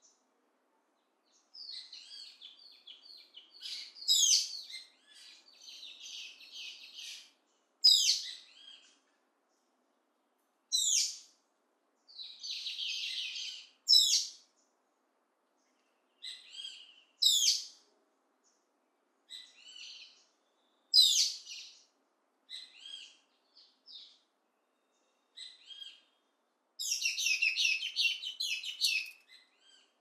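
Birds singing and calling: a sharp, loud call repeats every three to four seconds among softer, high chattering phrases, with quiet gaps between. A dense burst of chatter comes near the end.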